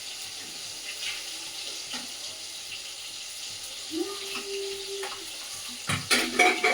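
Chopped tomatoes with salt sizzling steadily in hot oil in a kadai while being stirred, with scattered clicks of the spoon against the pan. A few louder knocks come near the end.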